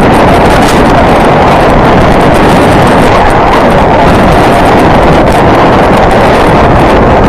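Loud, steady wind noise buffeting the microphone: a dense rushing with no let-up.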